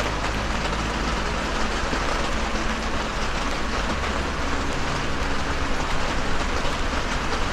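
Steady rushing noise with a faint low hum underneath, even throughout.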